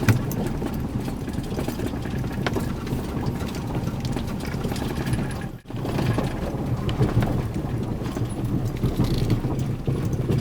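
Vehicle towing a trailer, moving slowly with a steady low engine and road rumble and scattered small knocks and rattles. The sound drops out briefly about halfway through.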